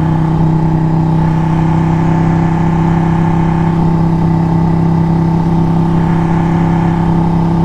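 Motorcycle engine running at a steady speed, holding an even, unchanging pitch, with wind noise.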